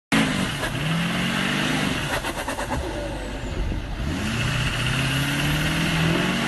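A truck engine revving under load: its pitch climbs over the first couple of seconds, settles, then climbs again near the end.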